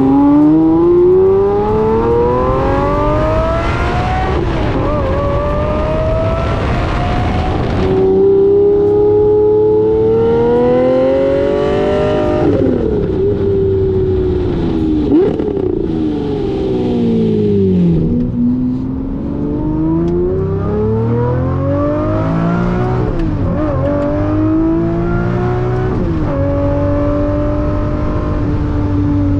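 Lamborghini Murciélago SV's V12 engine pulling hard, its note climbing in long rising sweeps through the gears. About halfway through the revs fall with a few quick pitch jumps as the car slows, then climb again in another pull before settling to a steady cruise near the end.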